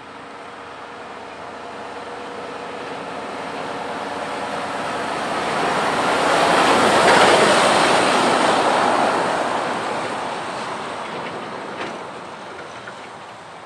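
A heavy vehicle passing by: its noise builds steadily to a peak about seven seconds in, then fades away.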